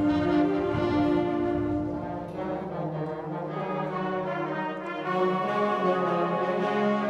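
A wind band or orchestra playing, its brass section holding sustained chords, with trombones and horns to the fore; the music eases a little in the middle and swells again near the end.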